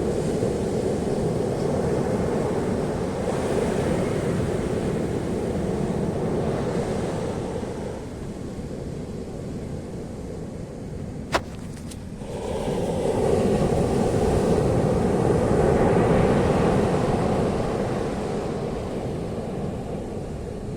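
Ocean surf washing on a beach with wind buffeting the microphone, the rush swelling and easing, quieter for a few seconds in the middle. A single sharp click about eleven seconds in.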